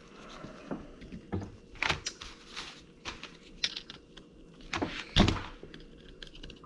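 Scattered clicks, taps and knocks from handling the parts of a CV axle being taken apart, with one heavier knock about five seconds in.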